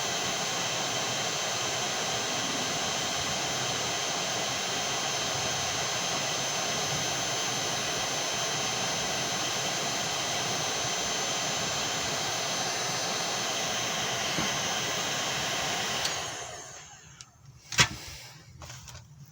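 Heat gun running steadily, blowing hot air, with a steady high whine from its fan. It is switched off about sixteen seconds in and winds down, followed by a single sharp knock and a few faint knocks.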